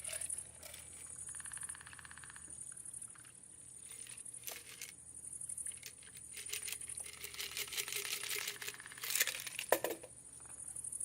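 Handling noises: scattered light clicks and clinks with bits of crinkling, the loudest clicks coming a little before the end.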